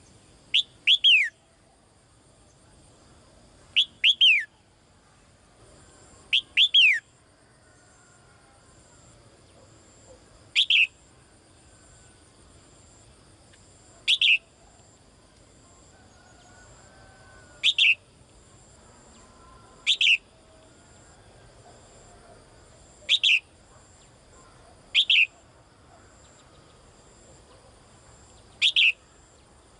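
Female bird calling: short, sharp notes that slide downward, in three quick clusters of two or three notes at first, then single notes every two to four seconds. It is the female's call to a male. A faint steady high-pitched tone runs underneath.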